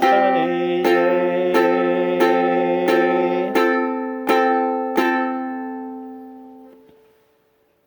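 Irin tenor ukulele strumming the song's closing chords, a strum about every 0.7 s. The last chord rings out and fades away over about two seconds.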